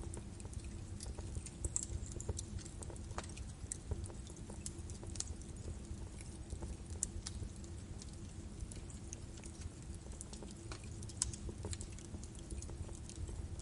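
Birch-wood fire burning in a fireplace: a steady low rumble of flames with irregular sharp crackles and pops from the burning logs.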